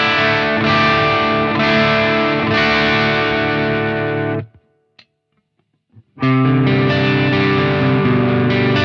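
Electric guitar played through a J.Rockett El Hombre overdrive pedal, giving a distorted, sustained tone. The playing stops about halfway through for under two seconds of near silence, then starts again.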